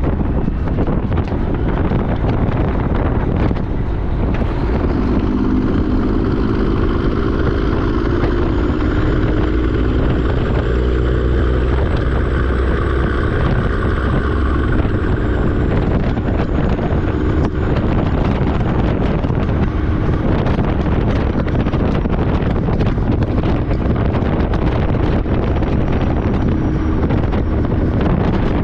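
Truck on the road: steady engine and road noise with wind buffeting the microphone. The engine hum comes up about five seconds in and eases back after about twenty seconds.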